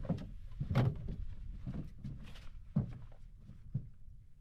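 A handful of knocks and thumps, the loudest just under a second in, from gear being handled aboard a fishing boat as a landing net is fetched, over a low rumble.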